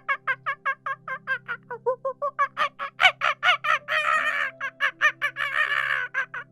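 Turkeys gobbling: a fast series of short calls, about six or seven a second, with two longer harsh rattling stretches in the second half, over soft background music.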